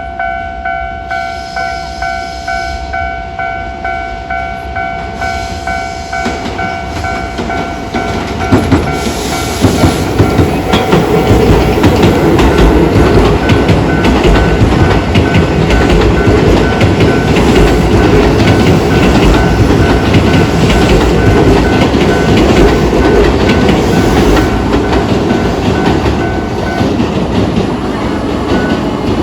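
Railway level-crossing warning bell ringing with its repeated low-tone clang, while a train runs past over the crossing with heavy rumble and wheel clatter from about eight seconds in. The bell stops near the end as the train noise fades.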